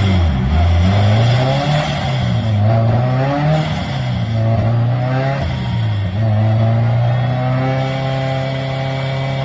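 Supercharged car engine revving, its pitch climbing and dropping several times, then holding at a steady speed for the last few seconds.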